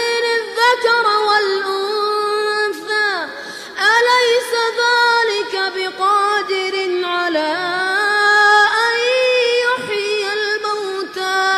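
Quran recitation in a melodic tajweed style: one voice chanting, holding long drawn-out notes with ornamented pitch glides, with a short drop in level about three and a half seconds in.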